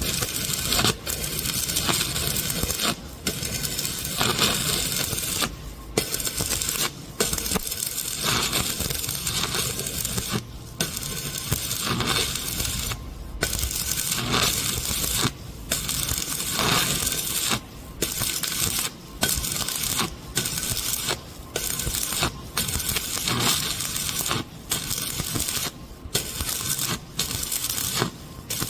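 Arc welder welding steel pipe: the electrode arc crackles and sputters steadily, with short breaks every second or two where the arc stops and restarts.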